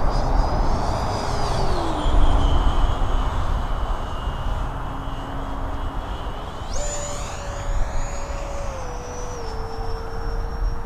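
Electric ducted-fan whine of a Freewing A-4 Skyhawk RC jet in flight. The pitch drops as it passes about two seconds in; near seven seconds in, a higher whine comes in sharply and then steps down in pitch.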